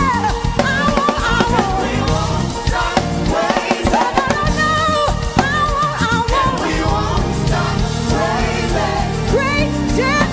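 Gospel worship music: voices sing long held notes with vibrato and sliding pitches over a band with drums.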